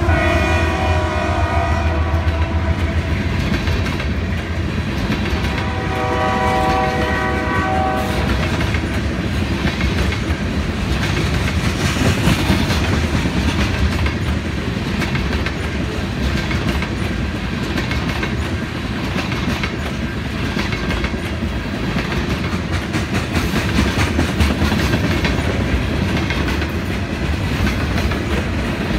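Union Pacific mixed freight train rolling past close by: the locomotive horn sounds twice in the first eight seconds or so, one long blast from the start and a second about six seconds in, over the steady rumble and clickety-clack of tank cars and covered hoppers passing.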